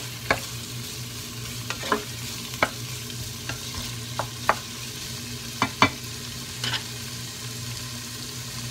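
Onions, chicken and diced pork belly frying in a pot with a steady sizzle, while a wooden spatula stirs them and knocks against the pot at irregular intervals. The knocks stop about two seconds before the end. A low steady hum runs underneath.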